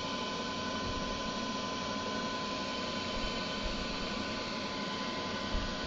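Comet 3KVHD vertical milling machine running steadily with its spindle turning, a constant hum and a thin, steady whine.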